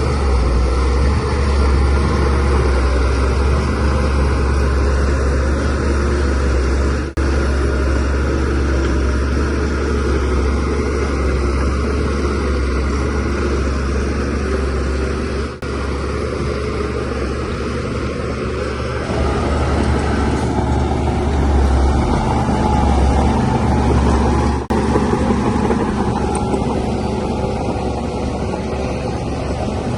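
DH17C3 crawler bulldozer's diesel engine running steadily under load as it pushes soil, with three very brief breaks in the sound.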